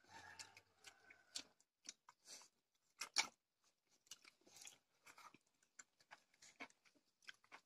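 Faint chewing of goat intestine (boti) curry eaten by hand: a scatter of short, soft mouth clicks, the loudest pair about three seconds in.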